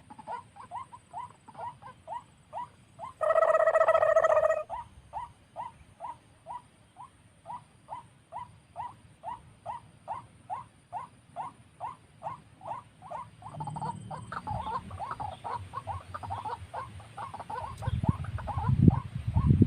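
White-breasted waterhen calls repeated steadily, short notes about two or three a second. About three seconds in, a louder held tone cuts across them for over a second, and near the end wind rumbles on the microphone.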